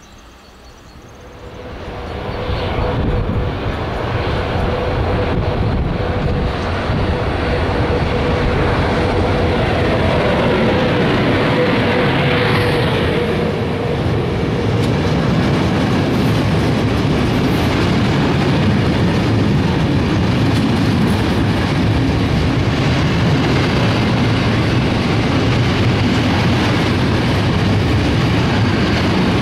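A freight train hauled by a PKP class ET22 electric locomotive passes close alongside on the next track. It swells quickly about two seconds in, then runs on as a loud, steady rumble of hopper wagons rolling over the rails. A steady hum sounds over the first half and fades out.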